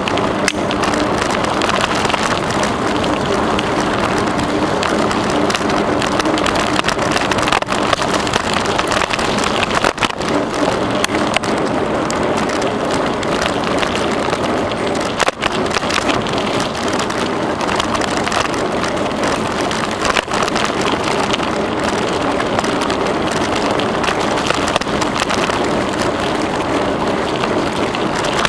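Bicycle riding along a trail: a steady noise of tyres rolling on the path surface, with many small clicks and rattles throughout.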